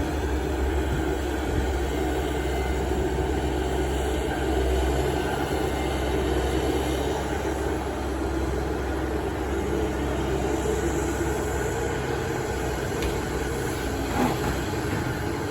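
Heavy diesel engines of a Kobelco SK280SR excavator and waiting dump trucks running steadily as the excavator works. A brief knock is heard near the end.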